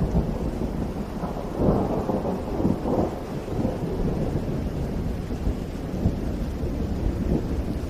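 Steady rain with a low, rolling rumble of thunder that swells about two seconds in.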